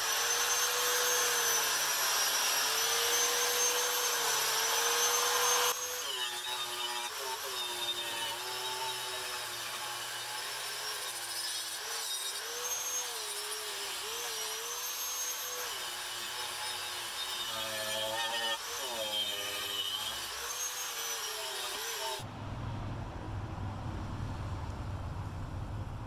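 An electric power tool's motor running, its pitch wavering and dipping as the tool is worked against the part. It is loudest for the first six seconds or so, then quieter and more unsteady, and near the end it gives way to a low rumbling noise.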